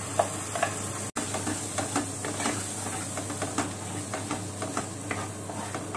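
Ground masala paste sizzling in hot ghee in a nonstick kadai, while a wooden spatula stirs it with many short scrapes and taps against the pan.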